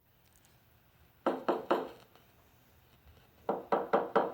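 Knocking on a door: three knocks about a second in, then a quicker run of five knocks near the end.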